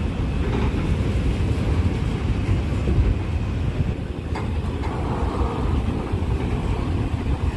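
A passing train's steady low rumble of wheels on rails, with a faint click about four seconds in.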